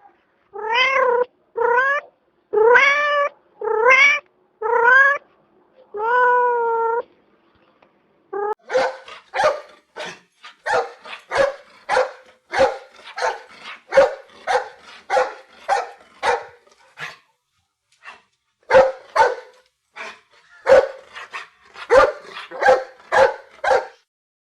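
An animal calling: six drawn-out pitched calls in the first seven seconds, then after a short pause a long run of short, quick calls, about two a second, broken by a brief pause past the middle.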